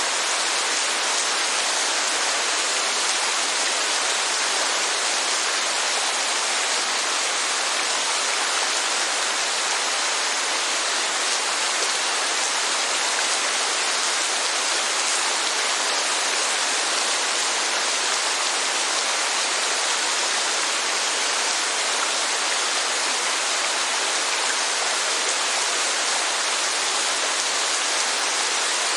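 Steady rainfall mixed with rushing water: a dense, even hiss that never breaks or changes, with no music.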